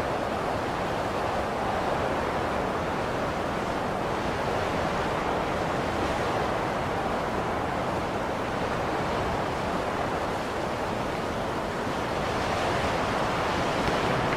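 Blizzard wind blowing steadily: a dense rushing noise that swells and eases slightly.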